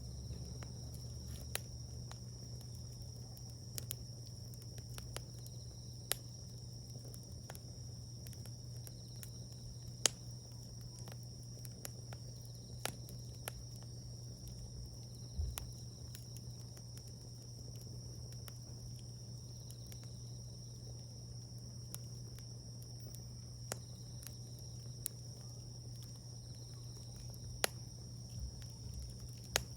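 Wood fire crackling, with scattered sharp pops, the loudest about ten seconds in, over the steady high drone of insects.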